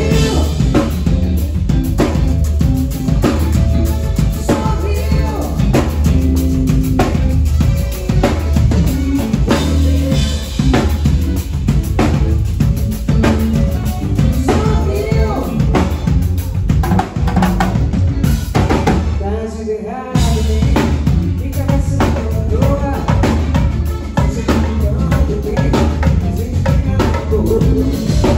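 Live band playing a song at a soundcheck, led by a drum kit with kick drum, snare and rimshots over bass and a singing voice. About two-thirds through, the band drops out briefly before the drums come back in.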